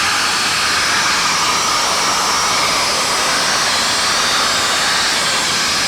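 Mattei 100 hp rotary vane air compressor running under power, putting out air with a loud, steady rushing sound like a leaf blower.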